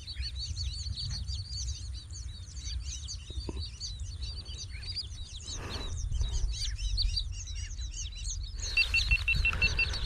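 Many small birds chirping in a dense chorus of short, high, quickly repeated calls, over a low outdoor rumble. The chorus stops about a second before the end, and a quick row of about six short, even pips follows.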